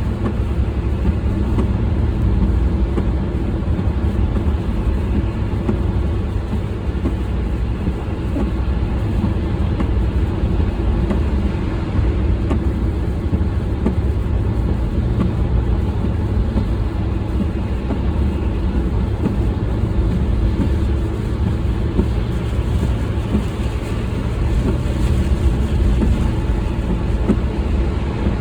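Steady low rumble of a vehicle on the move: road and engine noise with no breaks.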